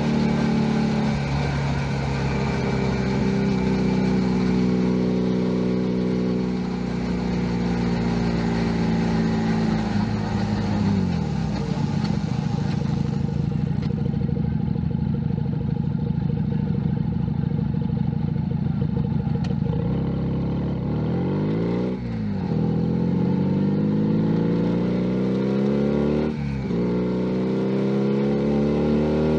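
Junak M11 Cafe's 125 cc single-cylinder four-stroke engine on the move. Its pitch falls as the bike slows, then holds steady for several seconds. It then pulls away in rising sweeps, broken by quick drops at two upshifts, about 22 and 26 seconds in.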